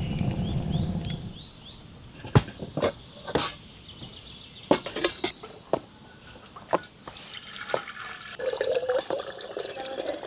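Liquid pouring and dripping during camp coffee-making, with a run of sharp clicks and knocks through the middle and a sustained filling sound near the end.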